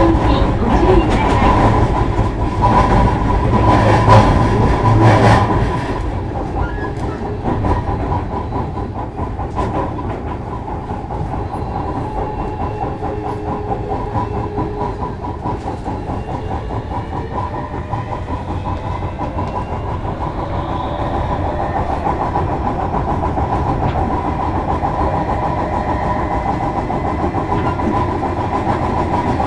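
Running sound heard inside the motor car of a JR Kyushu 305 series electric multiple unit: wheels rolling on rail with scattered clicks, loudest in the first six seconds, then steadier and a little quieter. A steady whine runs underneath, and faint shifting tones from the Toshiba VVVF inverter and permanent-magnet motors show in the second half.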